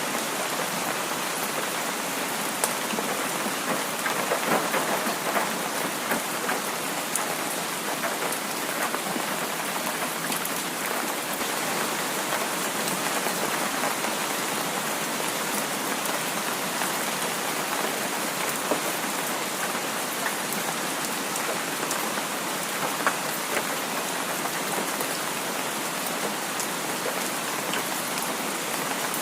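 Heavy rain falling steadily, a dense even hiss with many small scattered drop impacts.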